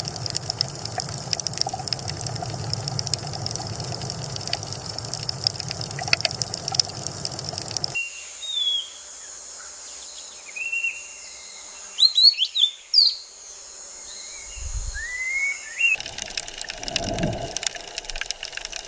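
Nature ambience in three parts: a steady hiss with many small clicks, then from about eight seconds in a string of short, separate bird chirps and whistles, then a steady rushing hiss again with low swells near the end.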